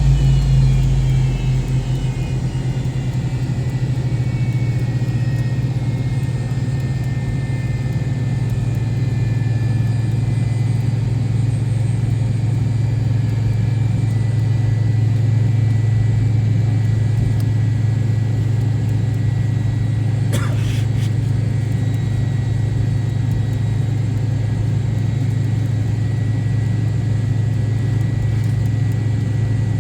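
Inside the cabin of an MD-88 airliner, its rear-mounted Pratt & Whitney JT8D turbofans running with a steady low hum. Their whine falls in pitch over the first ten seconds as the engines spool down, then holds steady. A brief knock comes about 20 seconds in.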